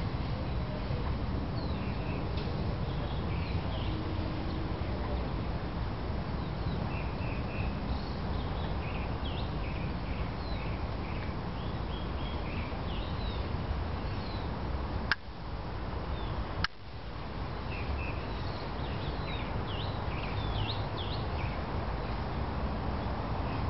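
Small birds chirping now and then over a steady low background rumble. Two sharp clicks come a second and a half apart, about two-thirds of the way through.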